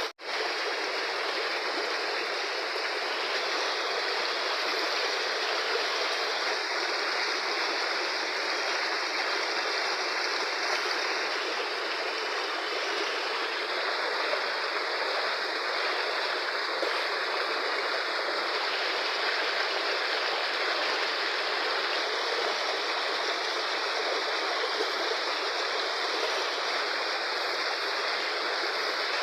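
Fast-flowing river rushing steadily, a dense even roar of water.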